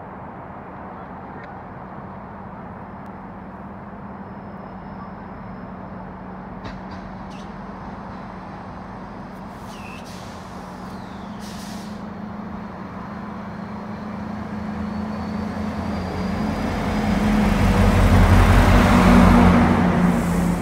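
GO Transit commuter train's diesel locomotive approaching with a steady engine drone and rumble that grows louder. It peaks as the locomotive and bilevel coaches pass close by, about 17 to 20 seconds in.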